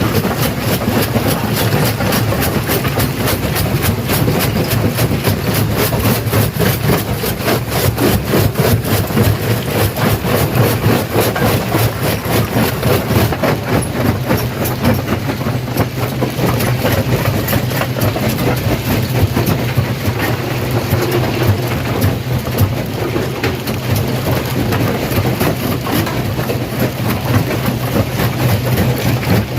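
Stone crusher running under load: rocks being broken in a rapid, continuous crunching and knocking, over a steady low hum from the machine.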